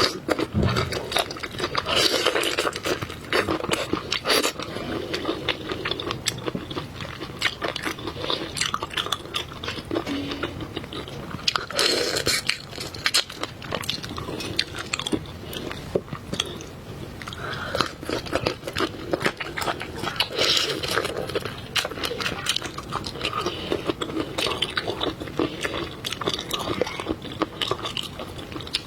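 Close-miked eating of seafood: steady, irregular crunching, biting and chewing, with many small wet clicks and smacks.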